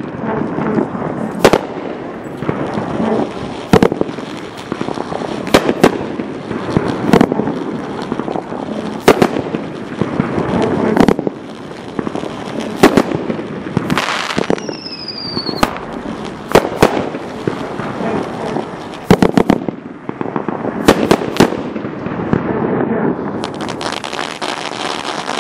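Dominator DM580 'Top Shelf' 16-shot fan cake firing: a sharp bang every one to two seconds as shells burst, with rumbling and crackling between them. A brief falling whistle-like tone comes about halfway through.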